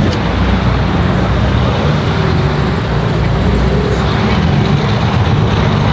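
Steady low rumble of car engines running among parked cars, with a constant wash of traffic-like noise.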